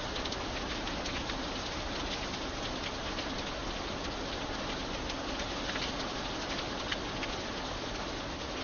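Steady rain: a constant even hiss with many scattered individual drop ticks.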